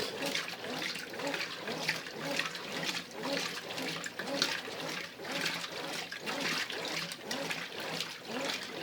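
Brastemp Ative 11 kg top-loading washing machine agitating a load of laundry in water. The water sloshes in repeated surges over a faint steady motor hum, as in the intermediate agitation of the heavy wash cycle.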